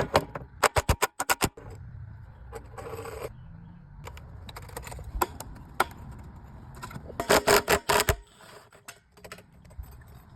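Tools and metal parts being handled: quick clusters of sharp clicks and clinks near the start and again about seven seconds in, with a brief scrape about three seconds in.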